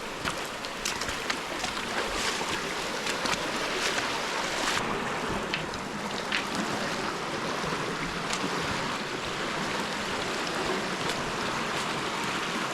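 Stream rushing steadily over rocks, with scattered sharp clicks and knocks through it.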